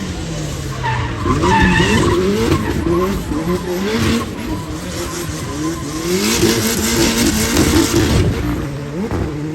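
Car engine driven hard, its revs climbing and dropping again and again, with tyre squeal about one to two seconds in.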